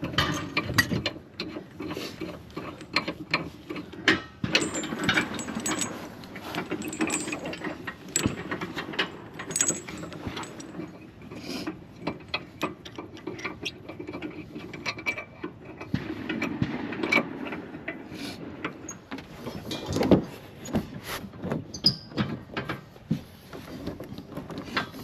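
Hand-worked ratchet mechanism clicking irregularly, with knocks of gear being handled, as equipment is packed up and tied down.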